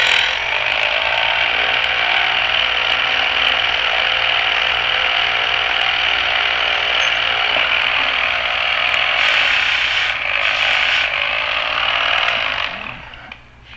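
Key duplicating machine running as its cutter cuts a copy of a house key: a loud, steady machine noise that dies away near the end.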